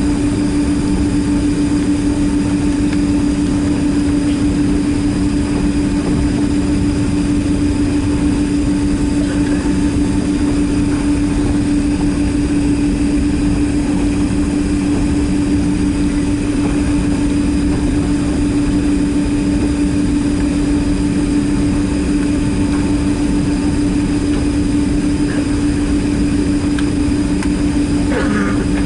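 Boeing 767-300ER jet engines running steadily at low power, heard from inside the passenger cabin as an even roar with a constant low hum.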